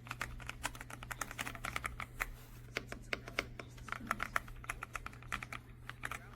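Typing on the AULA F108 Pro full-size mechanical keyboard: quick, irregular clacking keystrokes, several a second, with short pauses, over a steady low hum.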